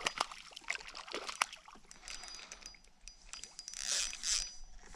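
Small water splashes and drips with scattered light clicks and knocks against a kayak, with a louder splashy stretch about four seconds in.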